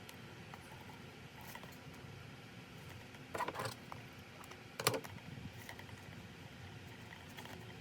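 Craft materials being handled on a work surface: a short clatter of light clicks about three and a half seconds in and a sharper single tap about five seconds in, over a steady low hum.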